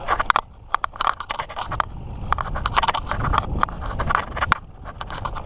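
Mountain bike rolling along a dirt trail: tyre noise and rapid rattles and clicks from the bike over rough ground, with a low rumble of wind on the microphone.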